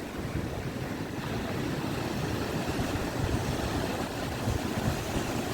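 Rough monsoon sea with waves breaking, under strong wind buffeting the microphone: a steady low rumble that swells and eases without a break.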